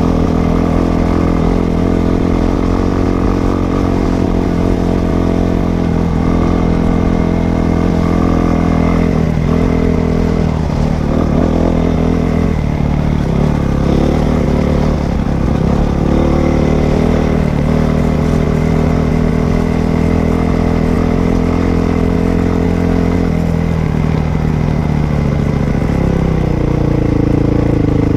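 Dirt bike engine running as it is ridden, its pitch rising and falling again and again as the throttle is opened and closed and gears change.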